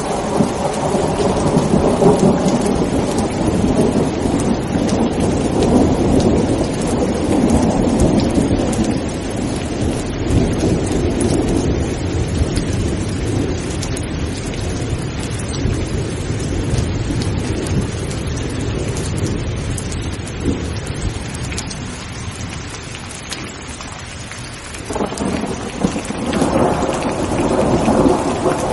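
Heavy rain falling steadily, with a long roll of thunder rumbling through the first half and dying away, then a fresh thunder rumble building suddenly near the end.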